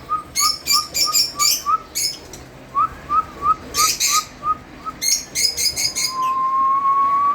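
Lovebirds chirping in rapid shrill bursts, with a short rising call note repeated about three times a second. About six seconds in, a long steady whistled tone starts and holds.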